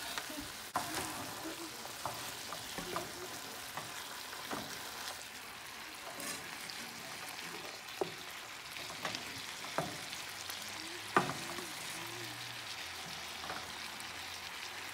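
Ground meat and diced onions sizzling in a frying pan while a wooden spatula stirs them, scraping and clacking against the pan now and then. The sharpest knock comes about eleven seconds in.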